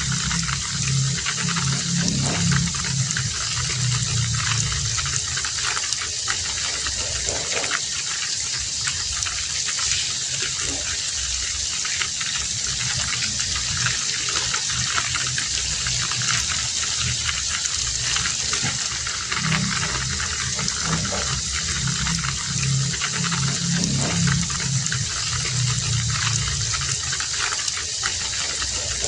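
Heavy rain falling steadily in a dense hiss. A lower rush of running water swells up twice, in the first few seconds and again past the middle.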